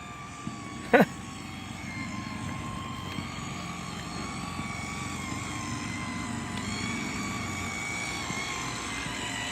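Electric motors of toy RC boats running on the water with a steady high-pitched whine that steps up a little in pitch past the middle. A brief sharp sound about a second in.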